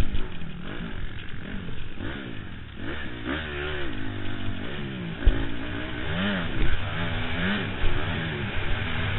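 Honda CRF four-stroke single-cylinder motocross bike engine revving up and falling back again and again as the rider accelerates and backs off round the track, heard from a helmet camera. A few sharp thuds from the bike landing on bumps come in the second half.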